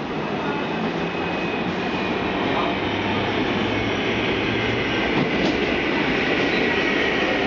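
Bombardier R142 subway train pulling into a station, its wheels running on the rails in a steady rumble that slowly grows louder. A thin, high, steady tone comes in over the second half.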